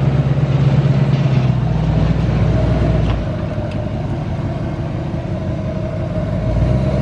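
Motor vehicle running steadily: a continuous engine hum over road noise, with the low rumble easing a little about three seconds in and building again near the end.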